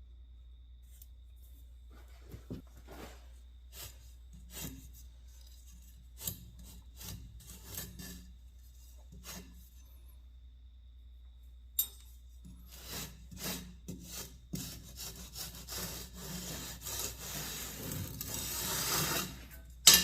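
Foundry molding sand being scraped and rubbed smooth in a mold flask: scattered short scrapes at first, then steadier, louder scraping over the last several seconds.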